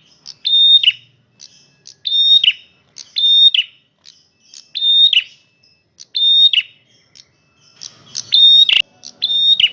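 Male prenjak merah singing loudly: a series of sharp, high calls about a second apart, each a short held note ending in a quick downward drop. There is a single sharp click near the end.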